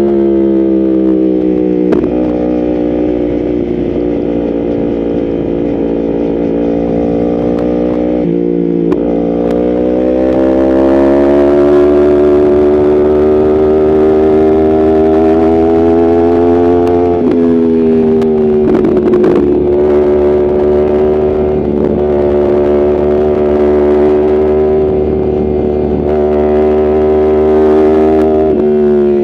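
Yamaha R1's inline-four engine running under way at steady revs. Its pitch dips about a third of the way through and climbs back, steps down slightly past halfway, and dips again near the end.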